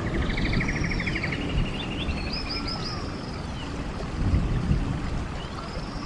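Stream water rushing steadily, with songbirds singing over it: a rapid trill near the start, then a run of short arching whistled notes.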